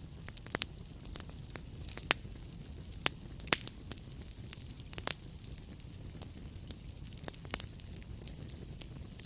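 Wood fire crackling in a fireplace: irregular sharp pops and snaps over a low steady rumble of the burning fire, with louder pops about two, three and a half and seven and a half seconds in.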